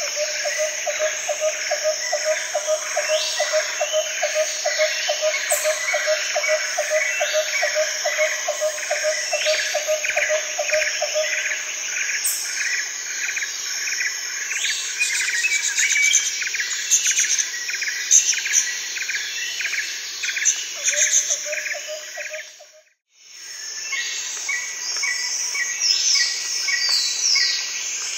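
Birds calling and chirping over a steady insect drone, one bird repeating a fast run of short low notes for several seconds. The sound cuts out completely for a moment near the end, then resumes.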